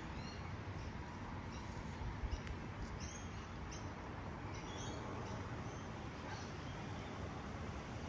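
Small birds chirping in the background, short high chirps coming every half second or so, over a steady low outdoor rumble.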